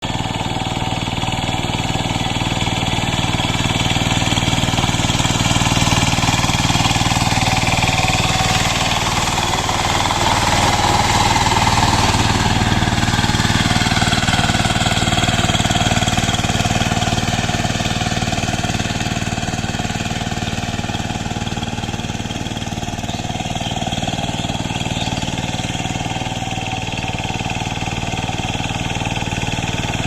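Walk-behind power tiller's single-cylinder diesel engine running steadily while the rotavator tills, with a fast, even chugging that swells slightly now and then.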